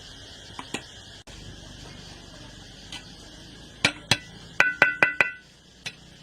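Metal being struck: a few light clicks, two sharp knocks about four seconds in, then four quick taps in a row that ring like a metal pot or pan.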